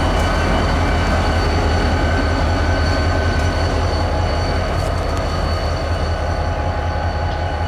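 CSX freight train rolling past: a steady, loud low rumble with a few thin, steady high-pitched tones ringing over it.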